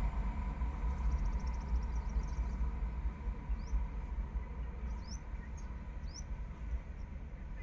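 Low rumble of a receding LHB express train on the rails, slowly dying away into the distance. Over it, a bird gives short rising chirps five times in the second half, after a brief rapid ticking trill about a second in.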